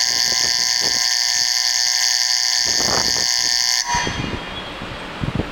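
A station platform's departure bell rings steadily, warning that the Shinkansen is about to leave, then cuts off suddenly about four seconds in. Wind noise and a few light knocks follow.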